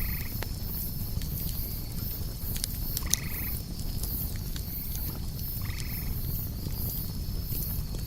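Campfire crackling with a steady low rumble, over the steady chirring of crickets. A short, pulsed croaking call sounds three times, about three seconds apart.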